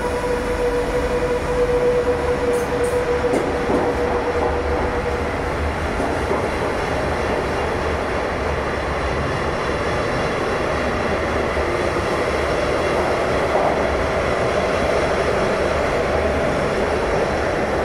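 SBB passenger train pulling out along an underground station platform, its coaches rolling past with a steady rumble of wheels on rails. A steady whine fades out about five seconds in.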